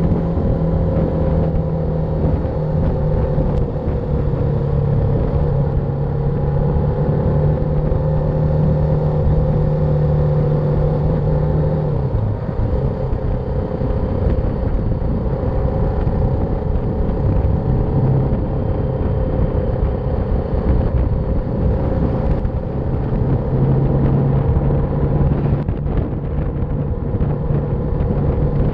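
BMW G310R's single-cylinder engine running at a steady cruise under a low, even rush of riding wind. Its steady note eases off about twelve seconds in and picks up again about two-thirds of the way through.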